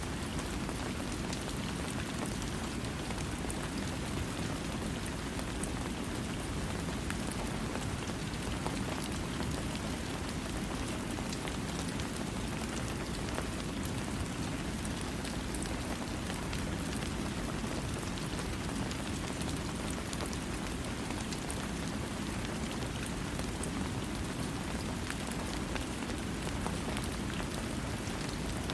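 Steady rain falling, a continuous even hiss with scattered droplet ticks and no thunder.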